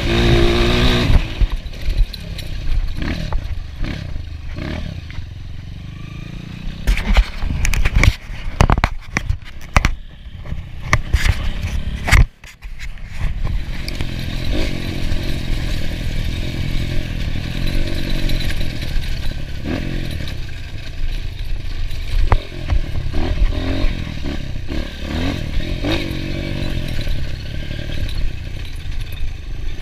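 Off-road motorcycle engine running under changing throttle, with a cluster of sharp knocks and clattering about a third of the way in and a brief drop in level just after.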